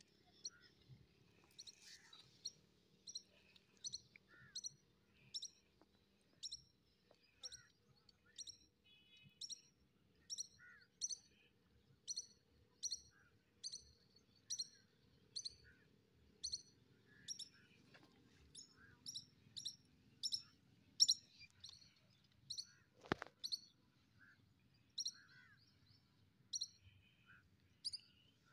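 A bird chirping over and over in short, high notes, a little more than one a second, with softer, lower chirps in between. A single sharp knock comes about two-thirds of the way through.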